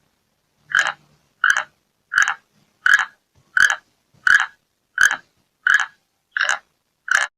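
An animal calling in a steady series of short, evenly repeated calls, ten in all, about three every two seconds.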